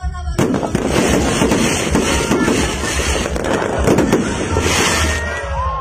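Fireworks display: dense, rapid crackling and popping of bursting shells, starting abruptly about half a second in and going on unbroken, over a steady low beat of background music.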